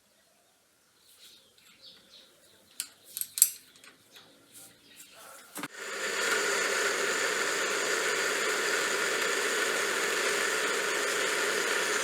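A few light clicks and knocks, then about halfway through a small lathe is switched on and runs steadily with an even motor hum and whine.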